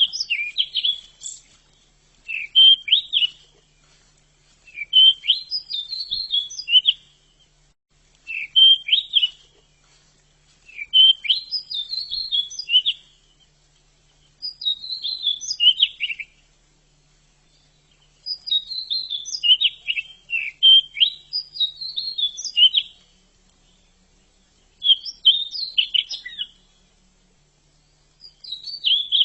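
Pied bushchat singing: short twittering song phrases of a second or two, about nine of them, with brief pauses between.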